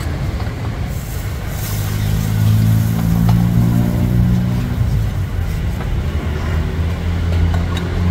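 Motor vehicle engine running in street traffic, a low drone that swells about two seconds in and again near the end, with a few faint clicks over it.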